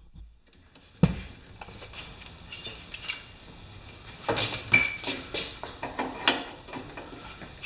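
Steel wrenches clinking and knocking against a bolt on a lawn mower as a 3/4 and a 9/16 wrench are fitted to tighten a loose bolt: a sharp knock about a second in, then scattered clinks and rattles, one with a short metallic ring.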